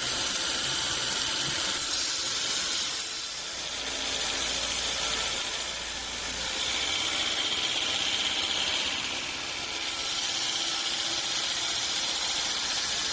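Sawmill saw cutting through a large teak log: a steady high hissing whine that swells and eases a few times as the blade works through the wood.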